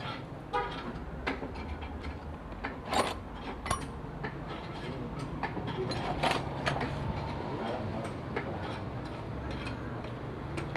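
Scattered metallic clicks and knocks, a few seconds apart, of tools and parts being handled while an outboard motor is worked on, over a low steady background hum.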